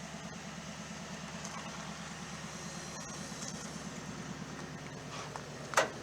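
Toyota Tundra's 5.7-litre V8 idling with a steady low exhaust pulse. A single sharp clunk near the end.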